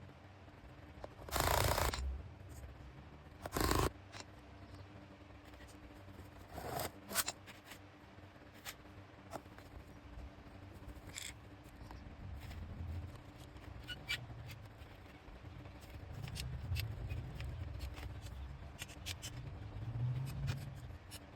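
Sped-up sounds of handwork: a few short loud rustling or scraping bursts in the first seconds and scattered sharp clicks throughout, with a low rumble swelling near the end.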